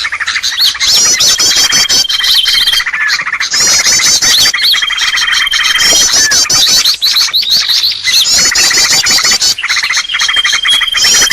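Bird-lure (pikat) recording of dense bird calls: rapid high chattering trills in short phrases that repeat every few seconds, with a thin steady whistle held for about a second now and then.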